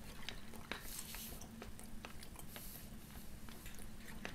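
A person chewing battered chicken balls in curry sauce, with small wet mouth clicks and a faint steady low hum underneath.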